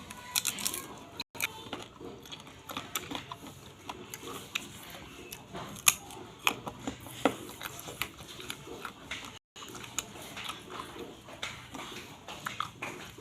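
Close-up eating sounds: crunchy bites and chewing, with scattered sharp crunches and two brief moments where the sound drops out entirely.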